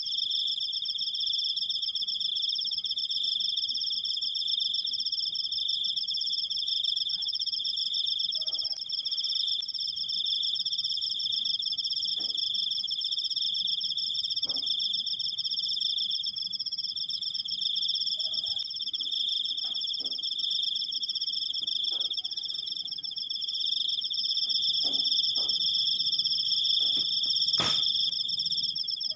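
Cricket (jangkrik) singing a long, unbroken trill, heard as two steady high pitches. Faint ticks are scattered through it, with one sharper click near the end.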